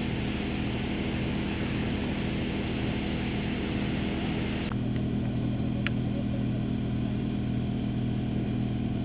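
An engine running steadily at an even pitch. About halfway through, the hiss above it drops sharply, and there is a short thin tick a second later.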